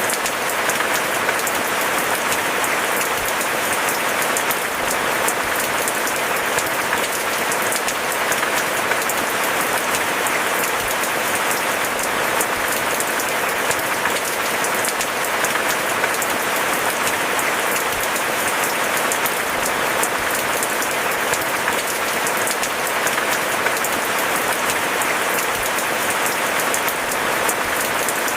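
Steady rain: a dense, even patter of many drops, with no thunder heard.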